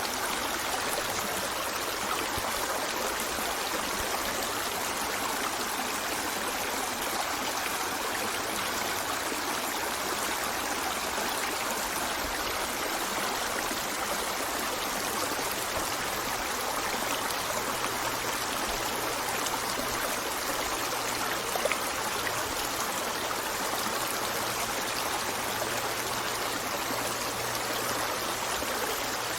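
River water flowing steadily, a continuous even rush with light trickling and gurgling.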